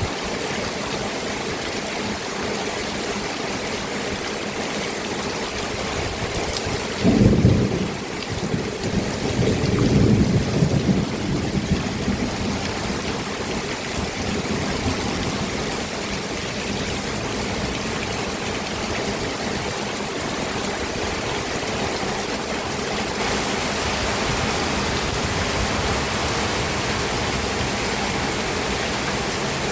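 Steady rainfall. A sudden low rumble about seven seconds in and a longer one a couple of seconds later stand out as the loudest moments.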